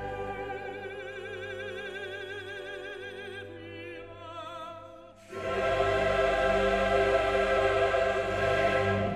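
Classical choral music with sung voices holding notes with vibrato. A louder, fuller choir and orchestra come in abruptly about five seconds in.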